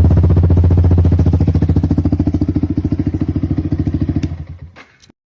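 Yamaha R15's single-cylinder four-stroke engine through an aftermarket exhaust, idling with an even, lumpy pulse after a rev. It is switched off and dies away about four and a half seconds in, with a couple of sharp clicks as it stops.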